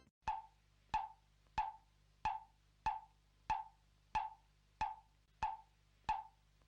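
Ten evenly spaced wood-block-like ticks, about one and a half a second, each with a short ringing tone, like a metronome or clock tick sound effect, over a faint low hum.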